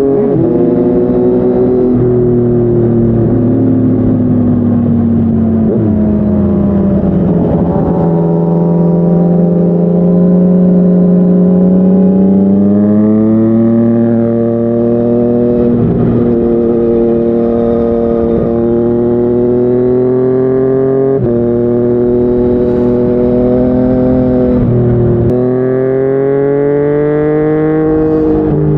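Yamaha MT-09's inline-three engine through a Yoshimura R55 slip-on exhaust, ridden on the road. The pitch falls and holds for a while, then climbs again, with several sudden gear-change breaks between about 13 and 25 seconds in.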